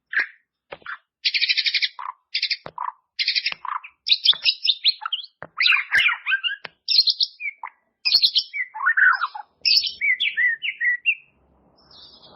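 White-rumped shama (murai batu) singing a rich, varied song of short phrases: fast rattling trills and clear whistled notes, separated by brief pauses. The song stops shortly before the end.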